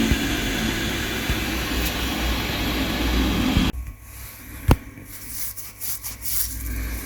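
Steady mechanical running noise with a low hum, which cuts off suddenly about four seconds in. A few scattered clicks follow, one sharp knock among them.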